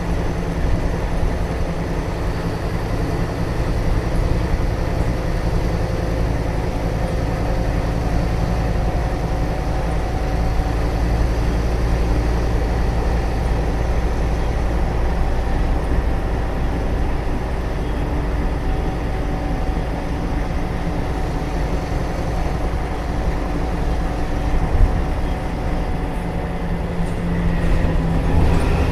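Scania K320UA bus with a rear-mounted Scania DC09 9.3-litre five-cylinder turbo diesel, running steadily with a deep rumble and a few steady tones over road noise. There is a brief louder thud a few seconds before the end.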